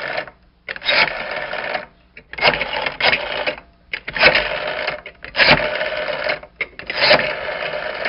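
Old telephone bell ringing in a rapid run of bursts, each about a second long with short breaks between them, about six in all.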